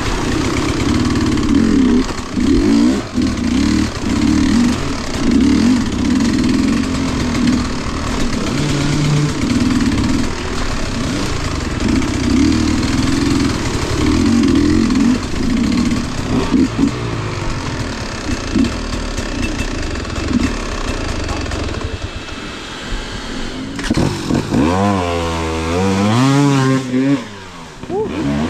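Motorcycle engine running loud and revving, its pitch rising and falling again and again. Near the end there is one clear rev that climbs and then drops away.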